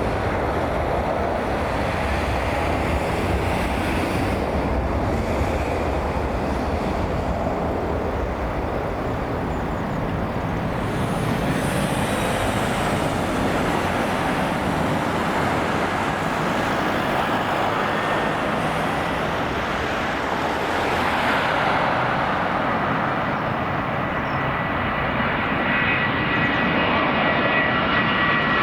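Jet airliner engines heard as a steady rushing roar, with a high engine whine coming in near the end.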